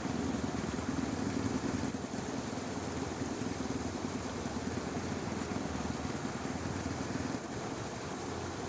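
Dense, steady chorus of frogs in a flooded rice paddy, a continuous low croaking mass with faint higher insect or bird noise above it; the low chorus eases slightly near the end.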